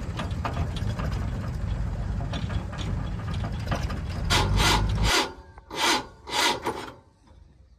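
A diesel engine of a heavy machine runs steadily with light clicks, then cuts off suddenly about five seconds in. Three short bursts of noise follow before it goes nearly quiet.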